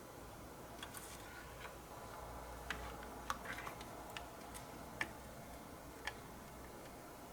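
Scattered light clicks and taps, about ten over a few seconds and irregularly spaced, of small parts or tools being handled during bench work on a desktop computer, over a faint steady hum.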